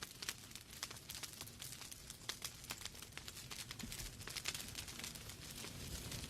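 Wood fire burning in a fireplace: logs crackling with many small, irregular pops and snaps over a soft steady rush of the flames.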